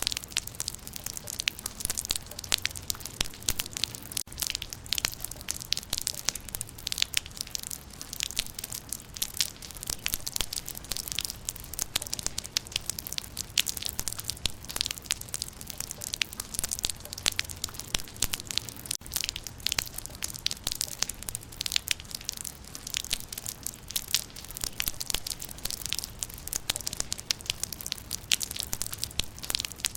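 Rain falling on leaves: a steady mass of raindrops tapping and pattering on foliage, with a low rumble underneath.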